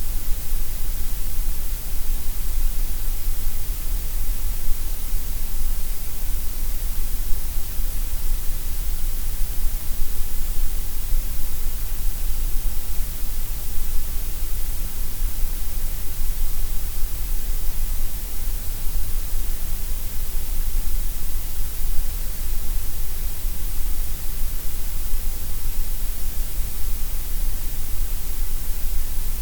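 Gray noise: a steady, unchanging hiss with extra weight in the deep lows and the highs and less in the middle range.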